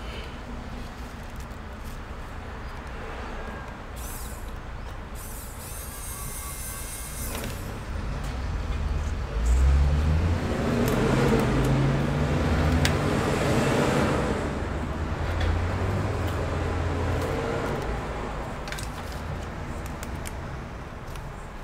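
Low engine rumble of a passing heavy road vehicle, swelling about eight seconds in and fading away over the following ten seconds.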